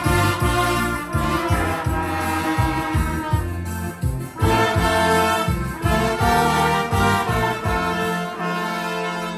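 Brass band playing a tune, trombones and trumpets over a pulsing bass line; the bass drops away about eight seconds in.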